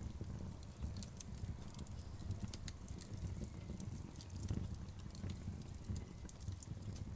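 Wood fire crackling in a fireplace: irregular sharp pops and snaps from the burning logs over a low, steady rumble.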